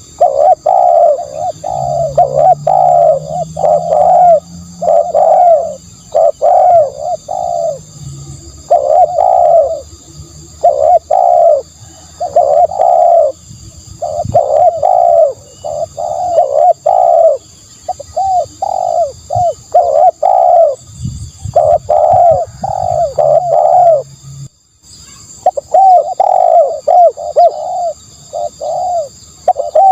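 Spotted dove cooing over and over, loud and close, in phrases of several rolling coos separated by short pauses, with a brief break about two-thirds of the way through.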